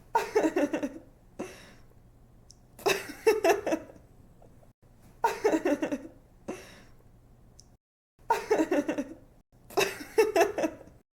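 A girl laughing in giggling bursts: five outbursts of quick pulsing laughs, each under a second long and about two seconds apart, over a faint steady hum.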